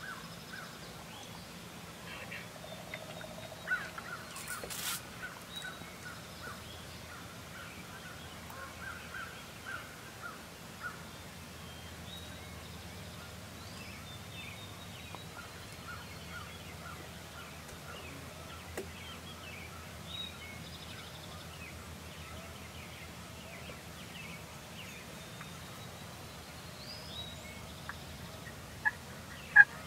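Faint runs of turkey yelps, short notes in quick series repeating every few seconds over quiet field ambience, with a single sharp click about five seconds in. Louder turkey calling starts right at the end.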